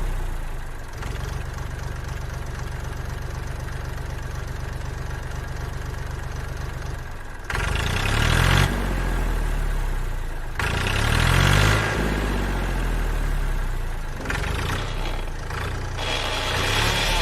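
Small engine idling with a steady putter, then revved up and down several times from about halfway through.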